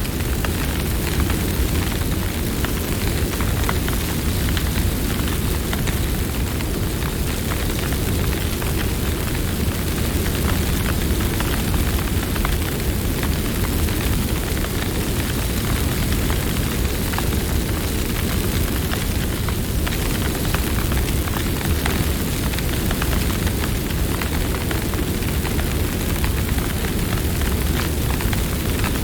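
Campfire burning: a steady low rumble of flames with frequent small crackles and pops throughout.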